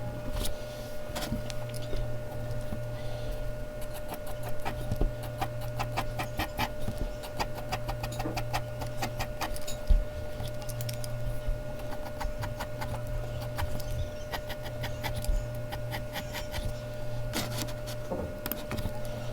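Mechanical pencil scratching on Bristol paper in quick, short repeated strokes, over a steady low electrical hum.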